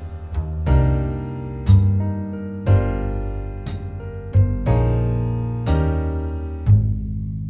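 Slow jazz backing track: piano chords struck about once a second over a low bass line.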